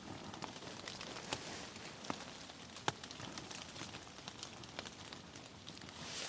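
Rain falling, with scattered drops tapping irregularly and one sharper tap about three seconds in.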